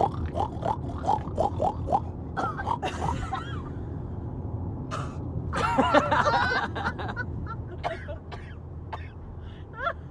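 People imitating pigs: a quick string of short oinks in the first two seconds, then a longer, louder squeal about six seconds in, over the steady low rumble of car road noise.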